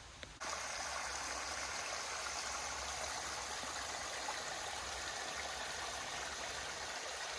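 A mountain creek running: a steady rush of water that begins abruptly about half a second in.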